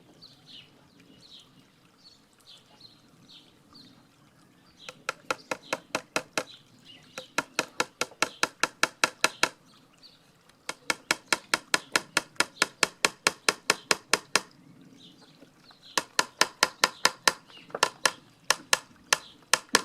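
Hammer driving small nails into the wooden bird house panels: quick light taps, about four a second, in four runs with short pauses between.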